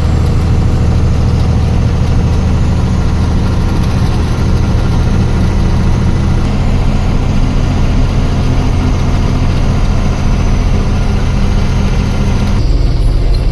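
Truck engine running steadily on the move, a loud low drone whose tone shifts about six seconds in and again near the end.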